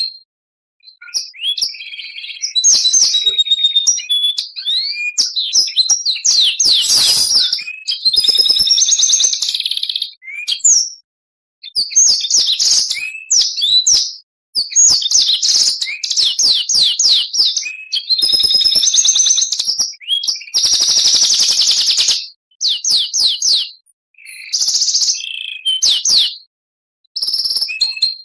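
Oriental magpie-robin (kacer) singing loudly in phrases separated by short pauses: whistled notes, fast repeated chips and trills, and a few harsh buzzy rasps, the loudest about two seconds long around the middle.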